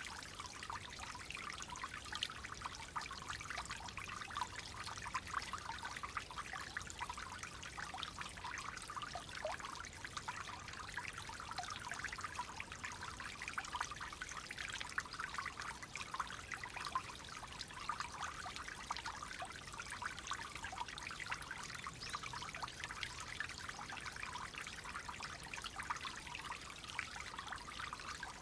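Clear, shallow water flowing and trickling steadily, with fine splashing and babbling over stones.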